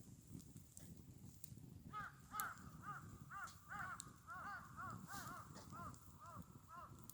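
A bird calling in a quick series of short rising-and-falling notes, about two to three a second, starting about two seconds in.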